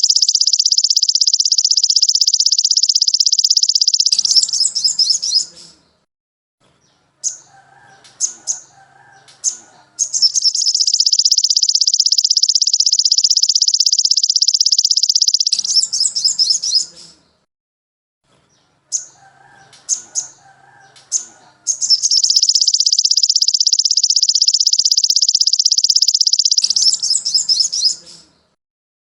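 Recorded songbird song for bird training, in a repeating pattern. A long, high, very rapid trill lasting about five seconds is followed by a few sharp, high chips. This comes three times, with short pauses between.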